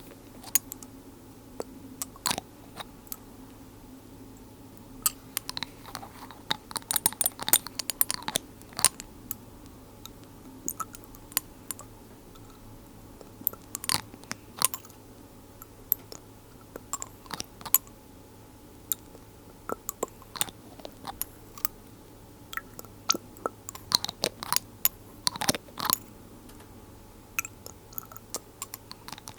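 Glass dropper bottles handled close to the microphone: irregular sharp clicks, taps and small crackles of glass, rubber bulbs and lids, coming in clusters over a faint steady hum.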